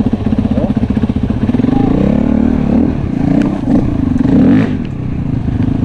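Enduro motorcycle engine idling with a steady rapid pulse. Engine revving rises and falls over it from about a second and a half in until near five seconds.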